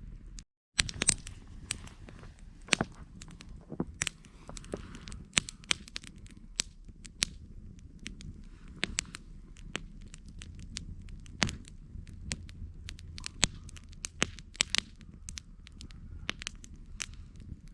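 Campfire burning: the wood crackles and pops in irregular sharp snaps over a low steady rumble. The sound drops out for a moment about half a second in.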